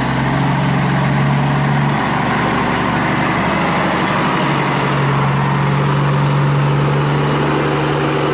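A steady engine-like hum that steps up in pitch twice.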